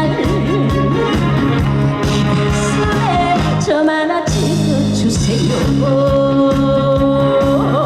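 A woman singing a trot song live over loud accompaniment with a steady beat, amplified through a stage PA. She holds a long note through the second half.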